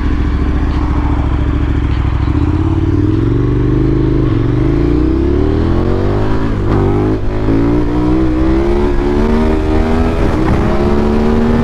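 Adventure motorcycle engine accelerating through the gears, its pitch climbing, dropping briefly at each shift, about three times, then climbing again, with wind rumble underneath.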